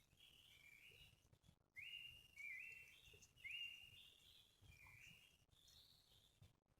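Forest birds singing faintly: a run of high whistled notes, each held about half a second to a second and sliding up at its start, several overlapping at slightly different pitches.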